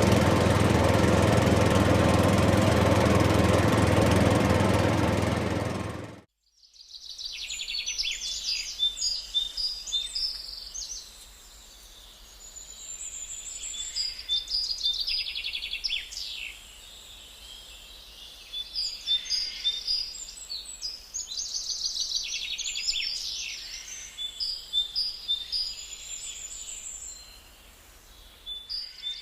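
A loud, steady rushing noise for about six seconds that cuts off suddenly, followed by birds singing, with many short high chirps and trills.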